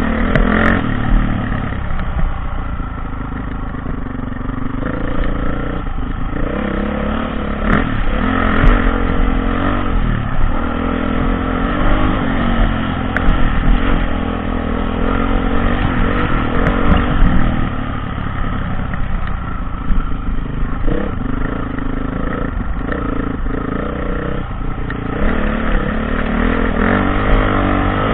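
Dirt bike engine being ridden, its revs rising and falling repeatedly, over a deep rumble, with a few brief sharp knocks.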